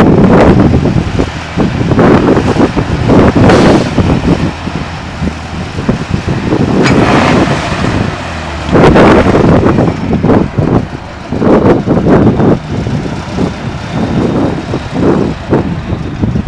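Tatra 148 truck's air-cooled V8 diesel engine revving in repeated loud surges under load, rising and falling every few seconds.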